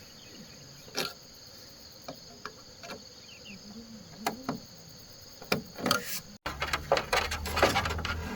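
Steady high buzz of insects such as crickets, with scattered single knocks and taps. After a sudden cut about six seconds in, a busier run of knocks and clatter sets in.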